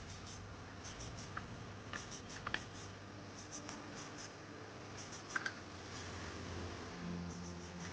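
Faint scratching and a few sharp small clicks from an electric kettle's plastic parts being handled as a new switch is fitted and the kettle is reassembled.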